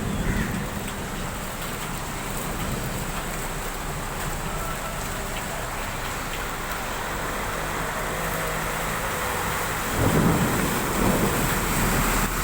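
Heavy rain pouring in a rainstorm with strong wind, a steady hiss. About ten seconds in, a louder low rumble comes in.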